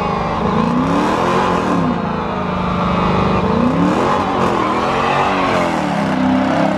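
A car engine being revved repeatedly, its pitch rising and falling several times in loud blips.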